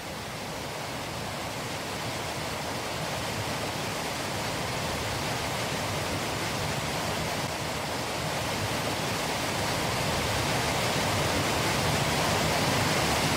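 Water rushing steadily down into a large hole, a continuous noise that grows slowly louder.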